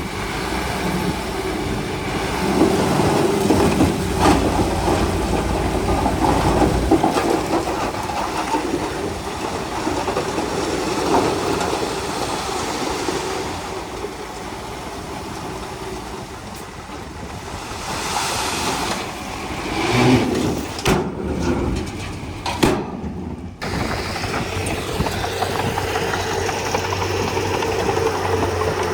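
Crawler bulldozer's diesel engine running under working load, with scattered knocks and clanks from the machine. It is louder for several seconds early on and breaks off briefly about three quarters of the way through.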